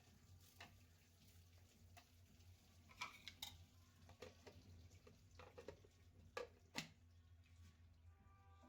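Scattered light clicks and taps of kitchen utensils against dishes, a few at a time with the loudest pair near the end, over a low steady hum.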